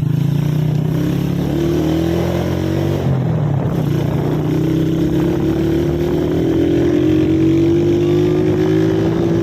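Motorcycle engine running under way, its pitch climbing as it speeds up, dipping briefly about three seconds in, then rising slowly again.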